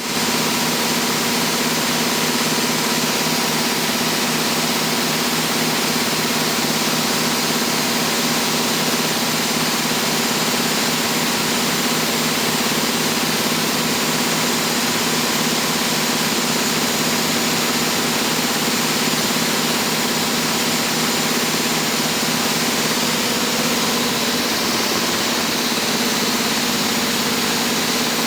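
A machine running steadily at constant speed: an even hum with a dense hiss over it, unchanging throughout.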